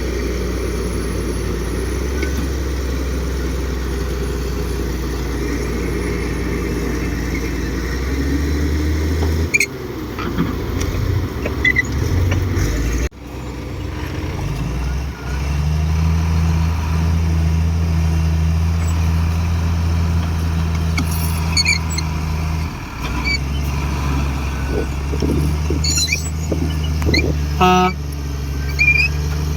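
Komatsu D58 bulldozer's diesel engine running steadily at a low drone. It breaks off abruptly about a third of the way in, then settles back to a steady run. A few knocks and rattles come near the end.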